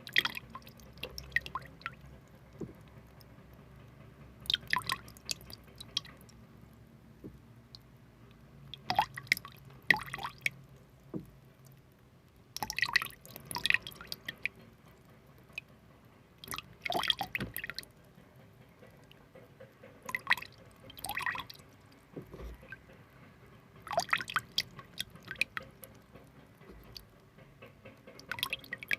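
Water dripping and splashing in short clusters of two or three drops, recurring every three to four seconds.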